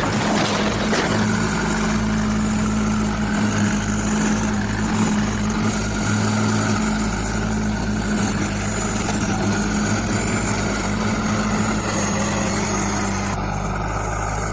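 A heavy vehicle's engine running steadily at a constant speed.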